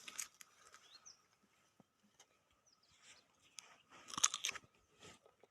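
Faint rustling and crunching of mango leaves and fruit being handled on the tree. The sound is scattered clicks, with a short burst of crackling about four seconds in, and a faint bird chirp or two behind it.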